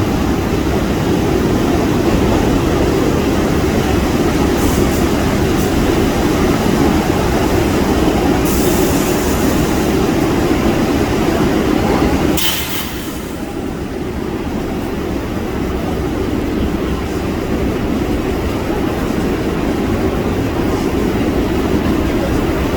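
New York City subway train running with a steady, loud rumble. There is a short hiss about halfway through, after which the rumble drops somewhat quieter.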